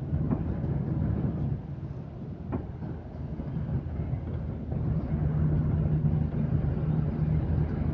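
Moving train heard from inside the carriage: a steady low running rumble with a hum that grows stronger about five seconds in, and one brief click about halfway, all through grainy 8-bit audio.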